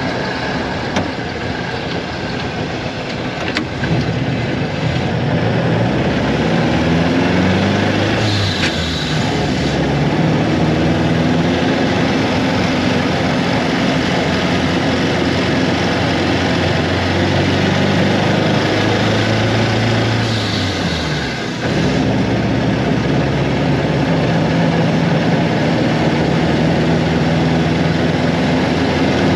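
Austin 7's small side-valve four-cylinder engine running under way. The engine note climbs, then falls back sharply twice, about a third of the way in and again about two-thirds through, as at gear changes.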